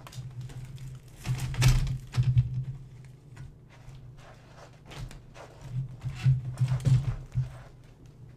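Irregular knocks and thumps with rustling, in two clusters: one around two seconds in, and another from about six to seven and a half seconds.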